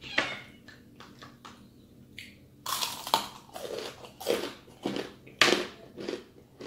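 Close-up crunching of deep-fried crispy chicken skin being bitten and chewed: a few small clicks at first, then from about a third of the way in, loud crisp crunches about twice a second.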